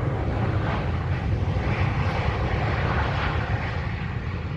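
Jet airliner's engines as it comes in to land: a steady, rushing roar that eases slightly near the end.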